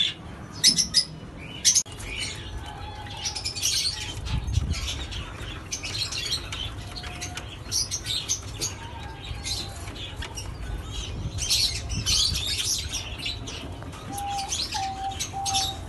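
Pet birds chirping and tweeting in rapid, busy bursts. Short soft steady notes, like a dove's coo, come in faintly at times and more clearly near the end.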